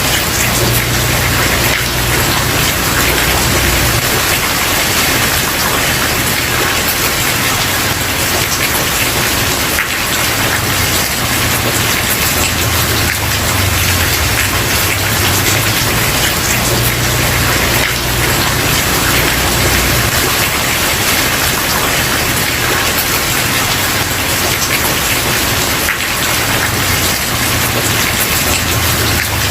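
Steady heavy rain falling on a wooden porch, a dense even patter with a low rumble that swells and fades.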